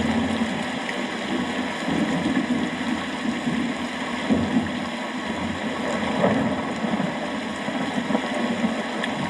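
Steady rain falling, an even dense hiss with a low, wavering rumble underneath.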